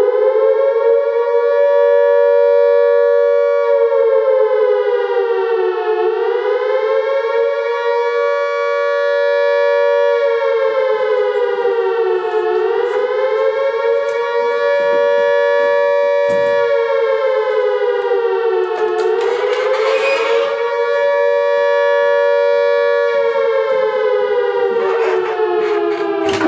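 Air-raid siren wailing, its pitch rising, holding and dipping again in slow cycles about every six seconds, then falling in one long glide near the end. Faint knocks and brief rustling noises sound beneath it in the second half.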